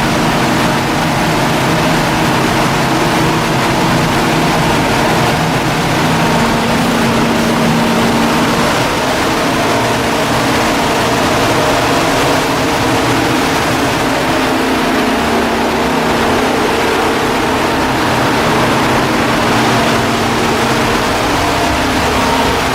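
A large engine running steadily at a constant speed, a continuous hum with a steady tone that does not change.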